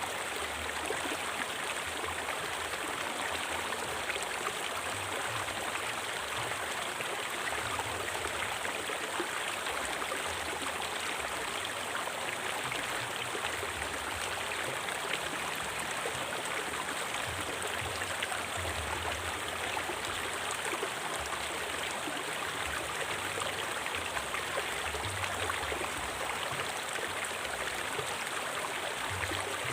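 A river flowing steadily over rocks: an even, unbroken rush of water.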